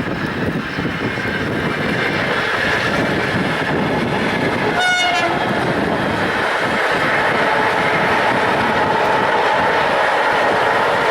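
VL10u electric locomotive running light past, a loud steady rumble of its wheels on the rails. One short horn toot comes about five seconds in, and a steady whine grows in the later seconds.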